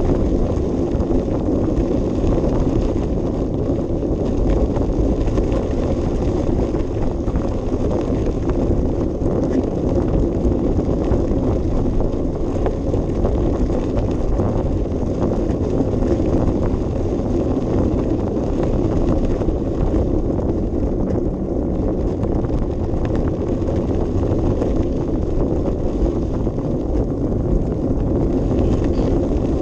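Bicycle being ridden, heard from a camera riding along: a steady rumble and fine rattle of tyres and frame over the path, with wind on the microphone.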